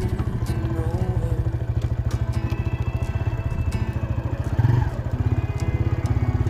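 TVS Raider 125's single-cylinder four-stroke engine running at a steady, rapid beat as the motorcycle is ridden over an off-road trail, with scattered clicks and clatter. A brief louder burst comes about two-thirds of the way in.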